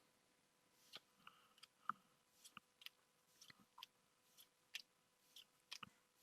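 Trading cards being handled while packs are opened: a faint, irregular string of small clicks, snaps and crinkles starting about a second in.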